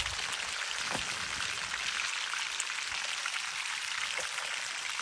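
Fish frying in hot oil: a steady sizzle with small, scattered crackles.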